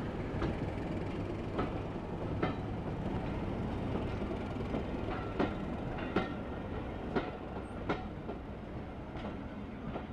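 Railway passenger coaches rolling past a platform, their wheels clicking sharply and irregularly over the rail joints over a steady low rumble. The sound fades near the end as the train moves away.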